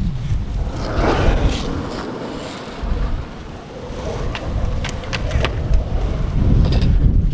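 Strong wind buffeting the camera microphone: a heavy low rumble that swells and eases, with several short sharp clacks in the second half.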